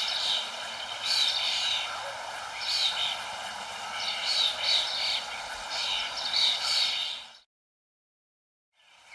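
Songbirds chirping in short repeated bursts over a steady hiss. The sound fades out to complete silence about seven seconds in and comes back faintly just before the end.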